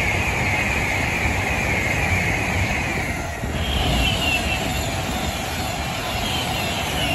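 Avanti West Coast Class 390 Pendolino electric train passing close at high speed: a steady rush of wheel and air noise, with a string of falling whistling tones as the carriages go by.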